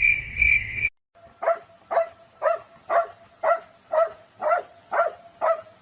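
A dog barking in a steady, even rhythm of about two short barks a second. Before that, for just under a second, there is a steady high-pitched buzzing tone that cuts off suddenly.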